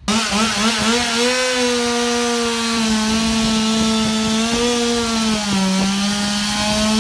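Stihl MS 200 T top-handle two-stroke chainsaw running at full throttle while cutting wood, a steady high engine note that sags briefly about five and a half seconds in as the chain loads in the cut.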